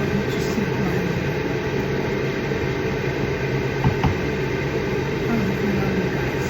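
A steady mechanical hum with a low drone, and a single short knock about four seconds in.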